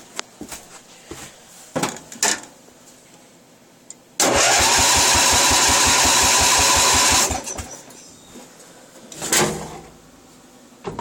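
An engine's electric starter cranking it for about three seconds with an even chug of about seven strokes a second, then cutting off abruptly without the engine catching. The tank turns out to be out of gas.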